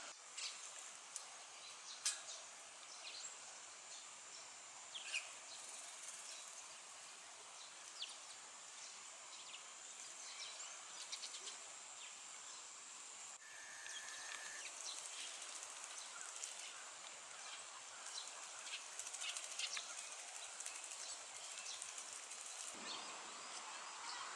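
Faint outdoor ambience: a steady high-pitched insect drone, with scattered short chirps and clicks over it and one brief held whistle a little past halfway.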